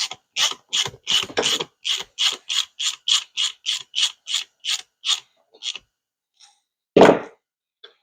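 Rhythmic mechanical ratcheting on a vehicle starter under repair: evenly spaced sharp clicks, about three a second, for roughly five seconds. It stops, and a single loud knock follows about seven seconds in.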